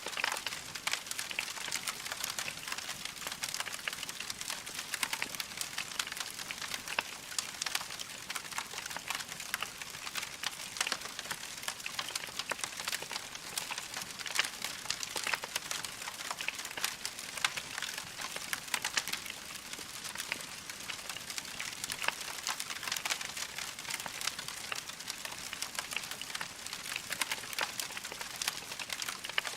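Wood fire burning in a fireplace: logs crackling with a dense, steady stream of small pops and snaps over a soft hiss.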